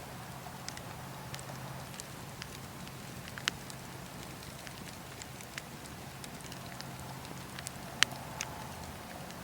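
Campfire burning with a steady hiss and scattered sharp crackles and pops, a louder pop about halfway through and the loudest just past two-thirds of the way in.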